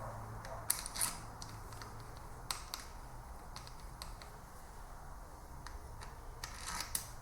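Scattered light metallic clicks and taps as camshaft bearing cap bolts are set into place by hand, over a faint steady low hum.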